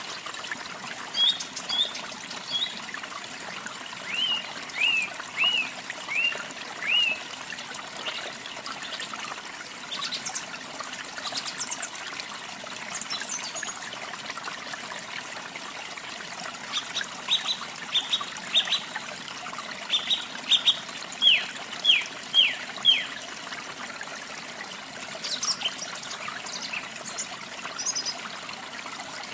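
Steady trickling of running water, with songbirds chirping over it in short runs of sharp, downward-slurred notes. The loudest run is about a dozen quick chirps in the second half.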